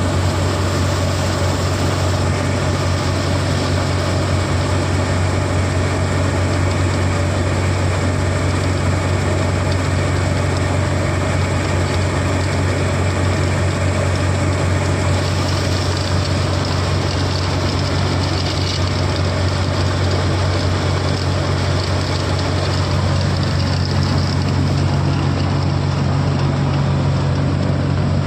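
Large diesel engine of farm machinery running steadily with a deep, even drone and a hiss of machinery noise over it.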